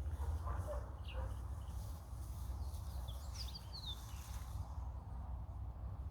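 Birds chirping, short notes falling in pitch, a few near the start and a cluster about halfway through, over a steady low hum.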